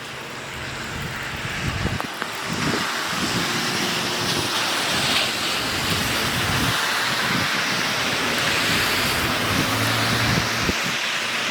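Road traffic going by: a steady wash of tyre and engine noise that swells about two seconds in and stays loud.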